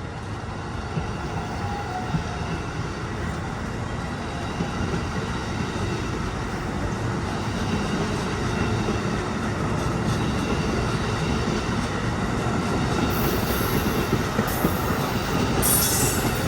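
A train rolling past, its rumble growing steadily louder, with short high squeals from the wheels on the rails in the last few seconds.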